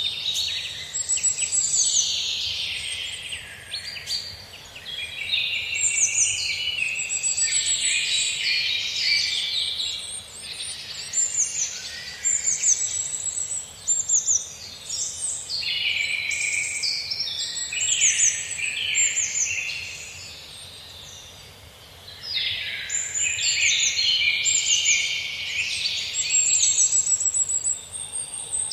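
Many birds singing together in a dense chorus of overlapping high chirps and quick trills, easing off briefly about two-thirds of the way through before picking up again.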